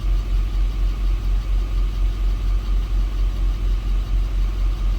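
6.6-litre Duramax V8 turbo-diesel idling at operating temperature: a steady low running sound with an even pulse about four times a second.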